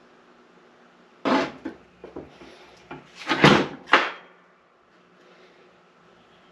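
Heavy metal transfer case parts being handled and fitted on a workbench: a sharp clunk about a second in, a few lighter knocks, then a louder run of knocks and scraping about three to four seconds in.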